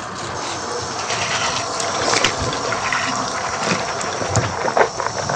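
Water running steadily from a kitchen tap during washing-up, with a few sharp clinks about two seconds in and near the end.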